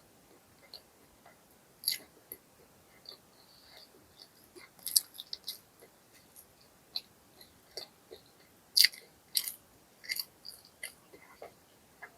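Close-miked chewing and biting of fried fast food: irregular sharp crunches and mouth clicks, the loudest about five seconds in and again around nine seconds.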